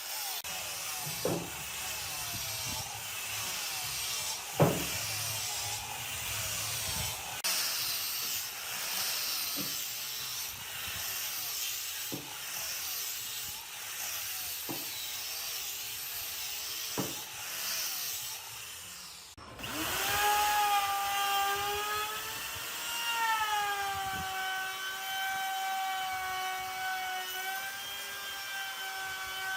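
Wood being worked with rubbing, scraping strokes and a sharp knock every two to three seconds. About two-thirds of the way through, this cuts off suddenly and a power tool motor starts, running with a steady whine that dips slightly in pitch and settles.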